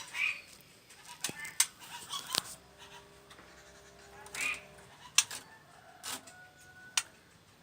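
Pet songbirds giving short, sharp chirps, about eight calls scattered at irregular intervals.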